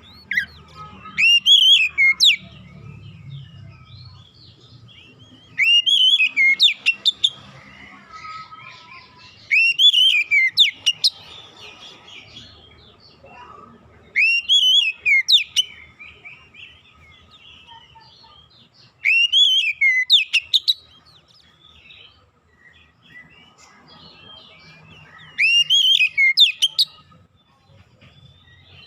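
Oriental magpie-robin song: six loud phrases of rising-and-falling whistles topped by very high twitters, one about every four to five seconds, with faint twittering in between.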